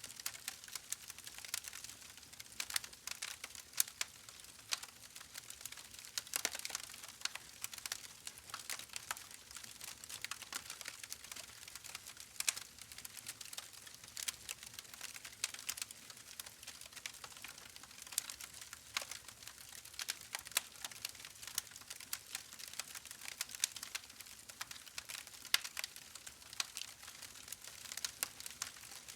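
Soft, irregular crackling: a dense patter of small clicks and ticks over a faint hiss, with no speech or music.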